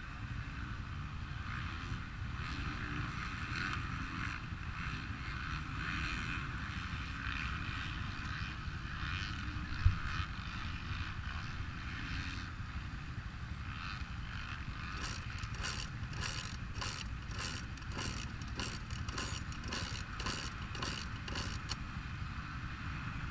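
Steady low wind rumble, with a single knock about ten seconds in. In the last third comes a quick, even run of sharp mechanical clicks, two or three a second, for several seconds.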